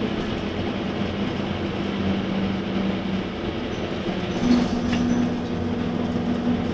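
Scania K230UB bus with its Scania D9C 230 hp Euro 4 diesel running under way, a steady drone. The engine note steps up to a slightly higher pitch about four and a half seconds in.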